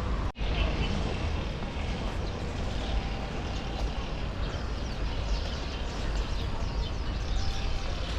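Outdoor street noise: a steady low rumble of traffic with a general hum, broken by a brief cut-out about a third of a second in.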